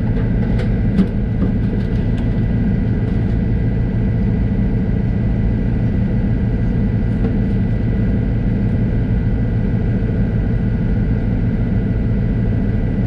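Heavy diesel engine running steadily, a constant low drone with a few light clicks and knocks about a second in.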